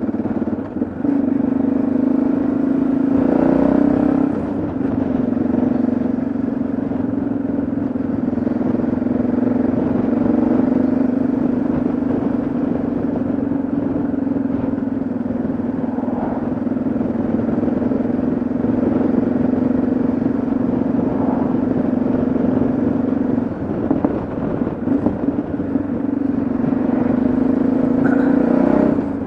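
Yamaha XT660Z Ténéré's single-cylinder engine running steadily under way at a held speed, with a brief easing-off near the start and again a little over 23 seconds in before it picks back up.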